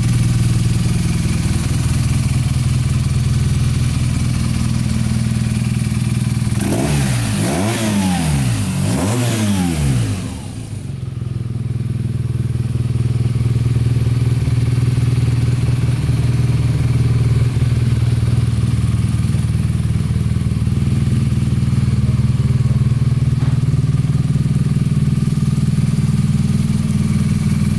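BMW R nineT Racer's boxer twin idling steadily. About seven seconds in it is blipped twice, rising and falling in pitch, then settles back to idle.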